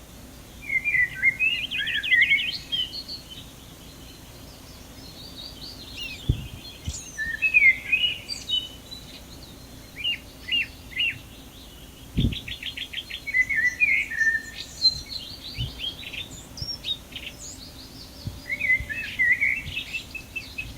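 Galah calling in repeated bouts of short chirps and rapid trills.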